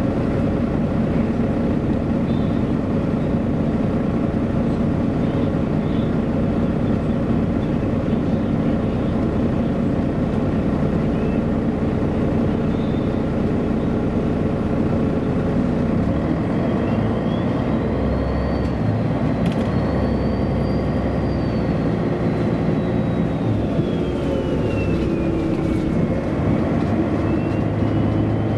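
Engine and drivetrain of a 1999 MAN A23 NG313 articulated city bus running steadily under way, heard while riding in it. About halfway through, a high whine rises, falls and rises again, and a single sharp knock comes a few seconds after the whine begins.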